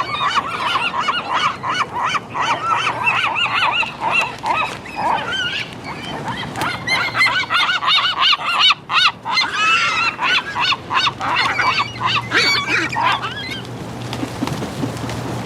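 A flock of gulls calling, many short calls overlapping in a dense chorus that stops near the end.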